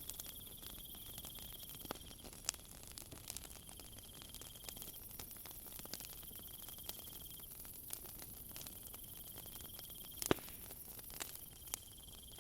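Crickets trilling in spells of about two seconds with short gaps, over a high steady insect hiss, while a wood fire crackles with scattered pops, the sharpest about ten seconds in.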